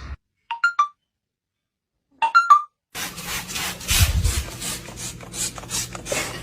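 A parrot gives a quick three-note chirp twice, with silence around each. About three seconds in, a run of rasping, scratching strokes starts, roughly three a second, over a low steady hum.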